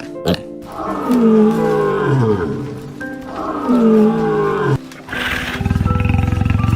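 A large animal's calls: two long roaring calls, each falling in pitch, then a rapid pulsed low growl near the end, over background music.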